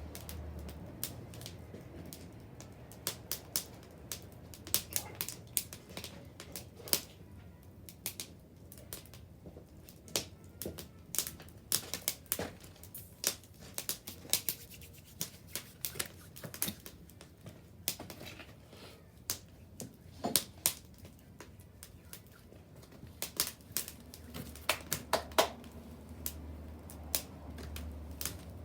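Wood bonfire crackling, with many irregular sharp pops and snaps over a faint low rumble.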